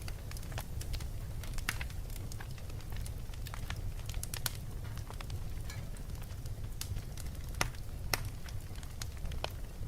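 Wood fire in a fireplace crackling, with irregular sharp pops and snaps over a steady low rumble; the loudest pops come about seven and a half and eight seconds in.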